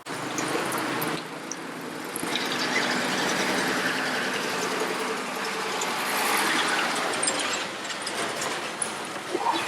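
A motor vehicle's engine running steadily on the move, with a mechanical rattle over it.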